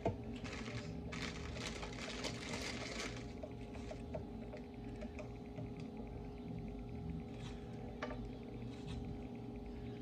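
Spoon scraping and tapping in a dish as a creamy lemon mixture is spread over a cookie layer: a scratchy stretch in the first few seconds, then a few light clicks, over a steady low hum.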